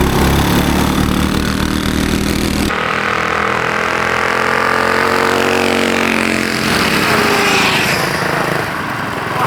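Several mini bikes' small single-cylinder four-stroke engines, clone 196cc and Predator-type 212 units, at full throttle launching from the line, their pitch rising as they accelerate. The sound changes abruptly about three seconds in.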